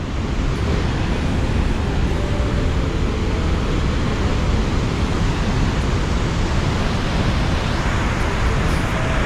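Rain-swollen creek rapids rushing in flood: a loud, steady rush of white water.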